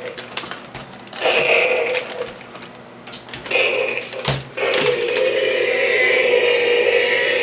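Dinosaur roaring sounds made in toy play: three drawn-out roars, the last and longest running from about halfway through, with sharp plastic clacks of the toys in between.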